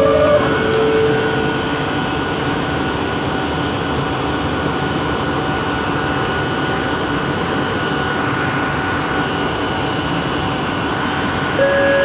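Bombardier Innovia ART 200 train running, heard inside the car: a steady rumble with a faint steady whine from its linear induction motor drive. A pitched motor tone steps down in the first second and another comes in near the end.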